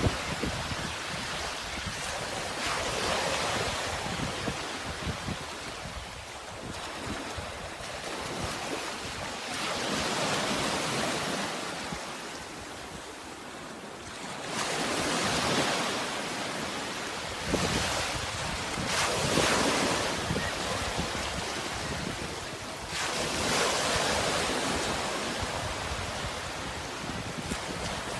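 Sea waves washing onto the shore, the rushing surf swelling and fading every few seconds.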